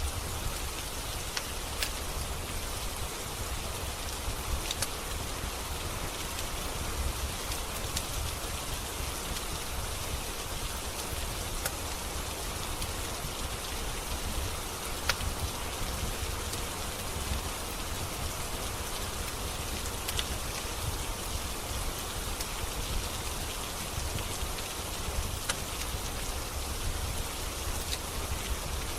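Steady rain with a low rumble underneath, and a single sharp pop every few seconds from a crackling wood fire in a fireplace.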